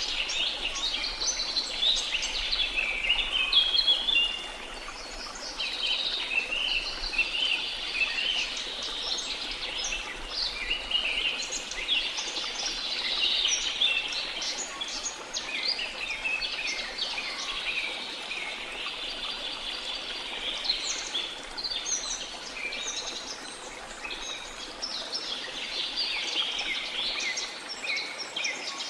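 Dense chorus of many birds chirping and trilling at once, over a steady background rush of falling water.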